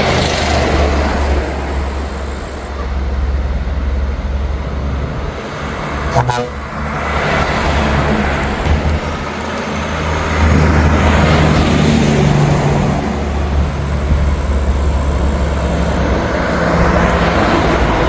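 Big trucks' diesel engines running and driving past, a steady low rumble with swells of road noise as they go by, and a short sharp sound about six seconds in.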